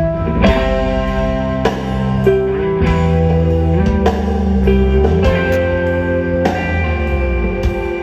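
Live rock band playing an instrumental passage: electric guitar chords ringing over a bass line, with sharp accents about once a second.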